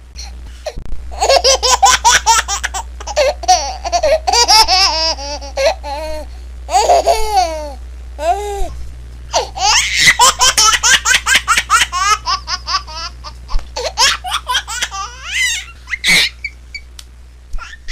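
A baby laughing in fits of quick, high-pitched bursts, with a short break about halfway through.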